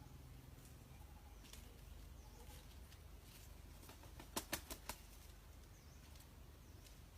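Near-quiet outdoor background with faint, high, brief chirps of small birds scattered throughout. About four seconds in comes a quick run of four sharp claps.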